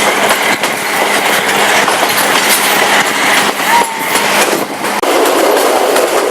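Passenger train carriage running along the track, the wheels clacking over rail joints amid a steady loud rolling noise.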